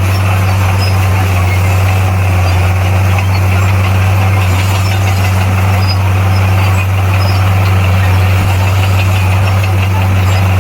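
Bulldozer's heavy diesel engine running steadily at an even speed, a deep constant hum with mechanical clatter over it.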